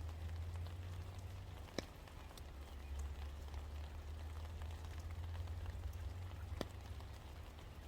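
Steady rain falling, with scattered drops ticking and two sharper drips landing close, about two seconds in and again near the end, over a low steady rumble.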